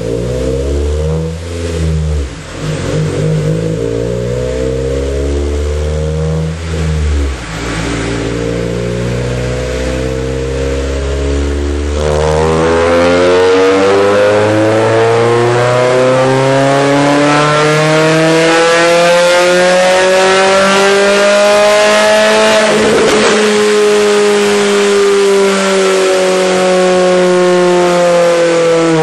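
Honda Fit four-cylinder breathing through an A Spec headers-back exhaust and intake, run on a chassis dyno. It holds a steady note with a couple of short revs, then from a little before halfway pulls in one long, smooth climb up the rev range, with a brief drop in pitch like a gear change near the end before climbing on.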